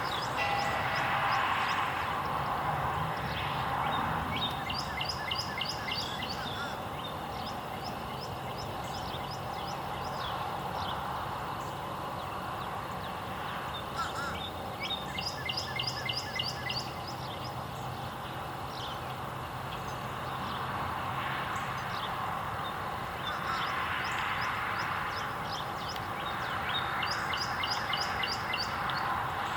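A songbird singing short phrases, each a rapid run of high down-slurred notes, three times, about ten seconds apart, over steady background noise and a low hum.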